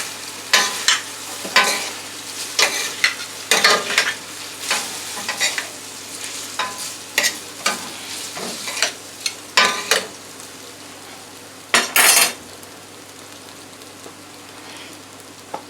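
Pasta being stirred and tossed in a frying pan in sizzling chicken and vegetable drippings, a utensil scraping and knocking against the pan at irregular intervals. The stirring stops about three-quarters of the way through, leaving a steady low sizzle.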